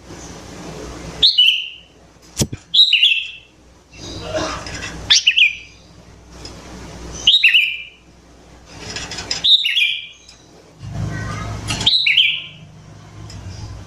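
Sooty-headed bulbul calling: a short, bright phrase repeated about every two seconds, six times, each note dropping a little in pitch. There is a single sharp click about two and a half seconds in.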